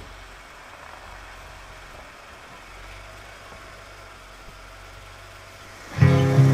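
Jeep Wrangler's engine running low and steady. A short click right at the start, and music starts up loudly near the end.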